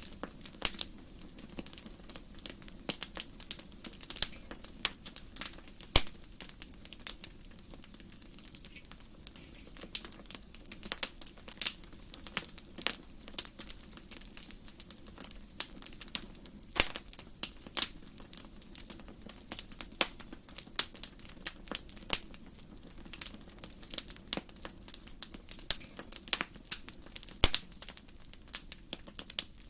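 Wood fire in a fireplace crackling, with many irregular sharp snaps and pops over a soft, steady low rumble.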